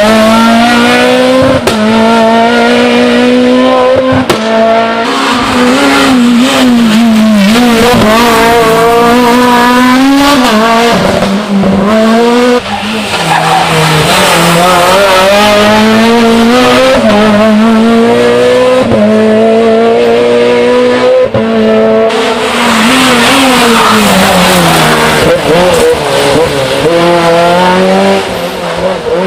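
Rally cars at full throttle passing one after another, engines revving high and dropping with quick gear changes and lifts, the pitch climbing and falling over and over.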